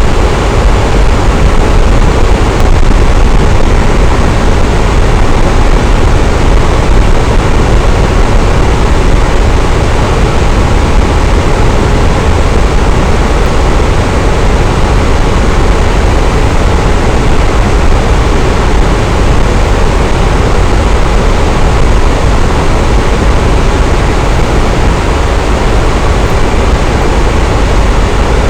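Electric fan running steadily: a constant, loud whooshing hum of moving air, heaviest in the low end, with no change in speed.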